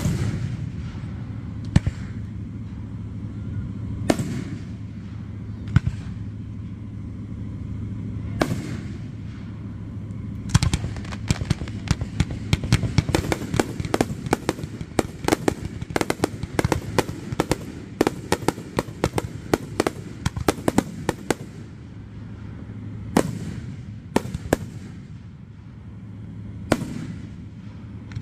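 Aerial firework shells bursting overhead, a sharp bang every second or two. About ten seconds in comes a dense run of rapid cracks lasting some ten seconds, then a few separate bursts again near the end.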